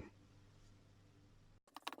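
Near silence with a faint room hum, then a few quick sharp clicks near the end.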